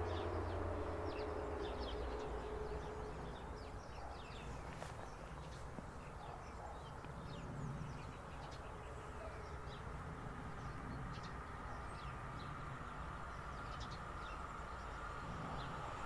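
Small birds giving short, scattered chirps over a faint low rumble. Near the end a faint steady whine grows as an electric regional train approaches down the line.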